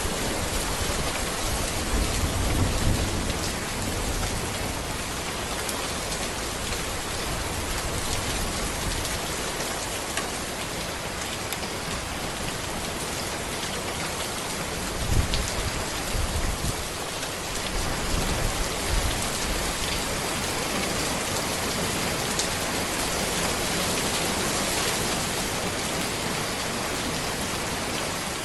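Steady rain falling on a road, a dense, even hiss, with a few short low rumbles: one a few seconds in, one about halfway through and another a few seconds later.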